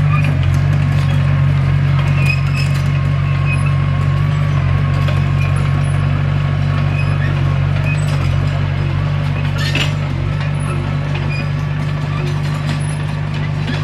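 Komatsu D21P bulldozer's diesel engine running steadily at working revs, with scattered light metallic clinks and a brief noisy burst about ten seconds in.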